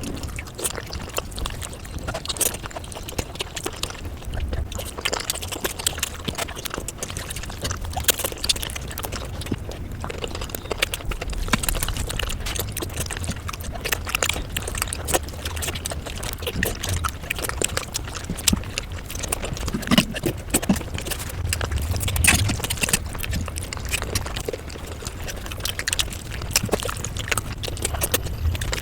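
Close-miked ASMR eating: chewing and mouth sounds, a dense run of small clicks and crackles with no speech.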